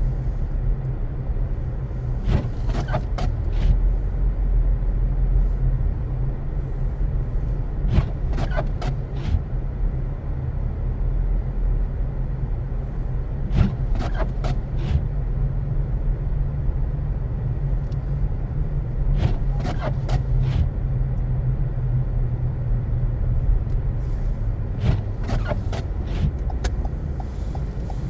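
Car driving on a snowy road: a steady low rumble of engine and tyres. A short cluster of clicks and squeaks recurs about every five to six seconds.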